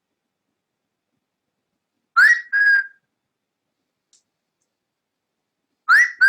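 Cockatiel whistling a short two-note phrase twice: a quick upward-sliding note, then a level slightly lower one, the second phrase near the end.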